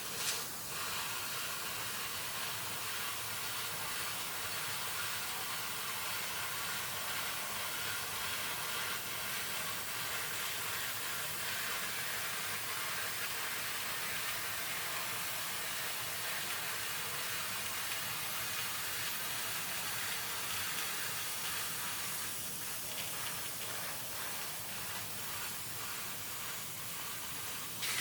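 12 kW fiber laser cutting machine cutting thick metal plate, its assist-gas jet giving a steady, even hiss with sizzling, with a brief louder surge at the start and another at the end.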